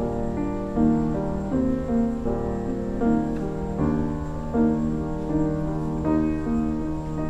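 Slow, gentle instrumental music played on a keyboard instrument, with melody notes and chords moving about once a second over held bass notes.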